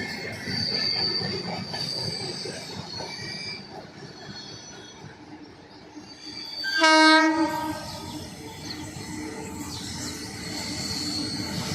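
Passing train with wagons rumbling and clattering on the track and the wheels squealing in a high, thin tone. About seven seconds in, an electric locomotive gives one short horn blast, the loudest sound here.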